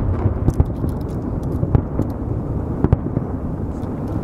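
Aerial firework shells bursting: a sharp report about once a second over a continuous low rumble of echoing booms.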